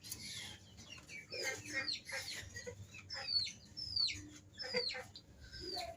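Captive purple swamphens calling: short clucking calls, then from about three seconds in a run of high calls that each fall in pitch, roughly two a second.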